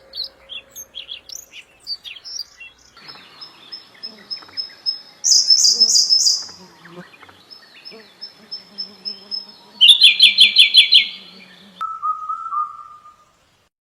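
Several different songbirds calling one after another: scattered chirps, then two loud rapid bursts of repeated notes, and a lower repeated whistle near the end that stops suddenly.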